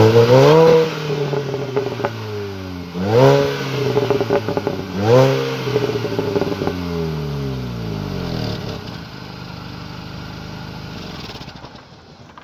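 Supercharged 1.6-litre four-cylinder engine of an R53 Mini Cooper S, through a John Cooper Works catback exhaust, revved three times; each rev climbs quickly and falls back, then the engine settles to idle.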